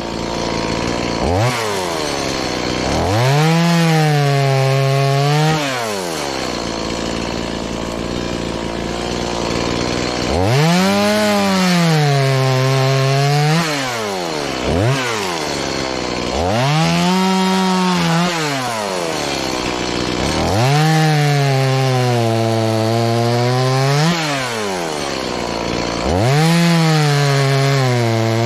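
Stihl MS180 two-stroke chainsaw (31.8 cc) revved up for about five cuts through wood of three or four seconds each, dropping back to idle between them. In each cut the engine's pitch sags as the chain bites and climbs again as it comes through.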